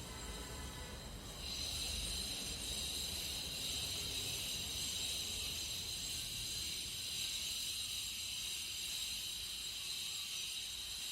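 A steady high hiss starts about a second and a half in and carries on without a break.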